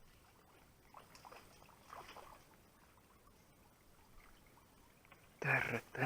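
Faint splashing in the pond water, twice, as a hooked fish is played on a float rod. Near the end comes a short, loud burst of a man's voice.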